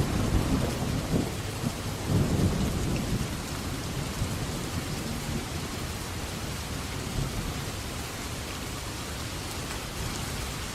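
Thunderstorm: rain falling steadily, with a low roll of thunder in the first three seconds that fades into the rain.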